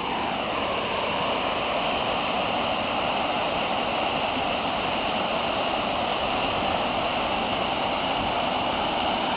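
Waterfall pouring over an old stone mill dam: a steady, unbroken rush of falling water.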